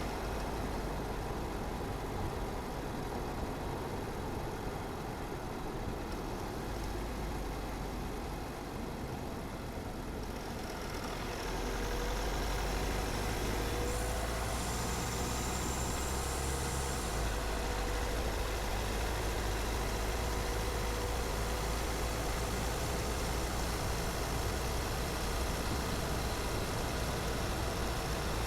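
A car driving on a road: steady road and engine noise with a low rumble. About eleven seconds in it grows louder and brighter, with a faint steady whine running on after that.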